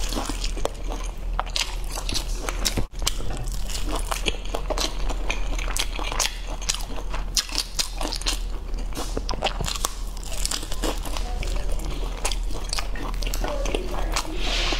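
Biting into and chewing a crisp-fried piece of meat coated in spicy sauce: a dense, steady run of sharp crunches.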